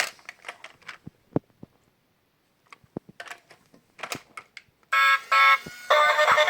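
Scattered short clicks and knocks with quiet gaps, then about five seconds in a loud electronic melody of steady beeping tones starts.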